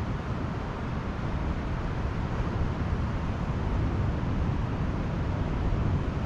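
Pacific Ocean surf washing on a sandy beach: a steady, even rush of noise, heaviest in the low end.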